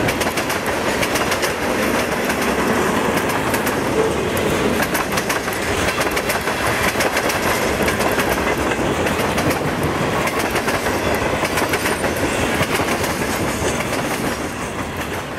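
Freight train of tank cars and boxcars rolling past, a steady rumble of steel wheels with rapid clicking over the rail joints, easing a little near the end.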